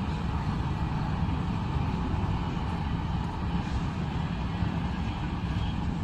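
Indian Railways train running past with a steady rumble.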